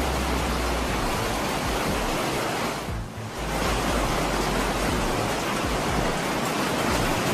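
Hailstorm: hail pounding down in a dense, steady roar that briefly dips about three seconds in.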